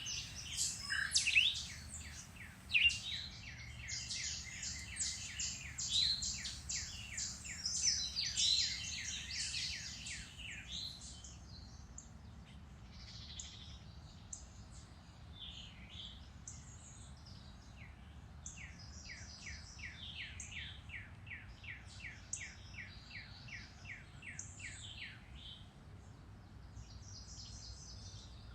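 Several songbirds singing and chirping in woodland. The song is dense and loudest for the first ten seconds or so, then thins to quieter chirps with long runs of short, rapidly repeated notes.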